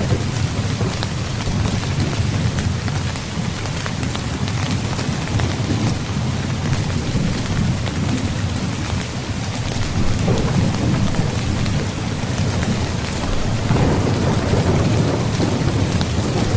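Steady rain pattering on a tent, with a low rumble underneath that swells about two-thirds of the way through and again near the end.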